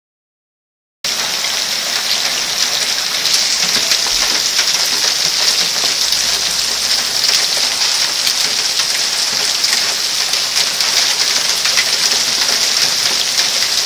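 Hail falling with heavy rain, starting about a second in: a steady, dense hiss of countless small impacts as the hailstones bounce off cars.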